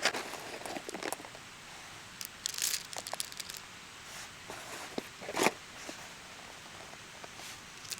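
Intermittent rustling and crinkling handling noise, with a few short crackles and snaps; the loudest comes about five and a half seconds in.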